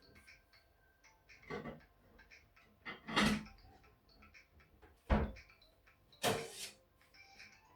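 Kitchen handling noises: four separate knocks and clatters, a second or two apart, the last one longer and rattling.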